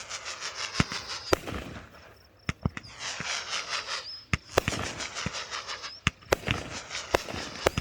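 Fireworks display going off: a rapid, irregular run of sharp bangs from bursting shells, with crackling in between.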